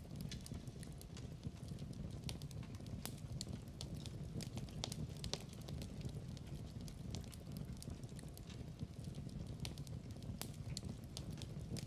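Wood fire crackling in a fireplace: many irregular sharp pops and snaps over a steady low rumble of flames.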